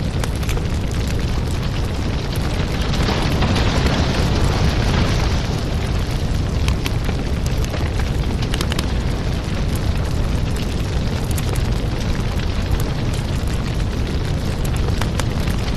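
Wood fire crackling and popping over a steady low roar of flames, with a louder hissing rush about three to five seconds in.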